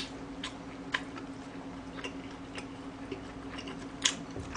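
Close-miked chewing with scattered wet mouth clicks and smacks, the sharpest at the start and about four seconds in, over a faint steady hum.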